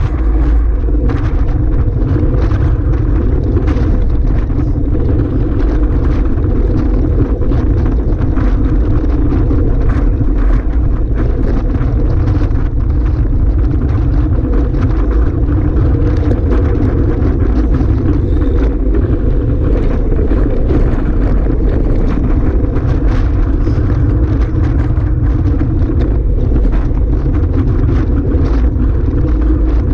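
Strong wind buffeting the microphone: a loud, steady low rumble with frequent brief crackles.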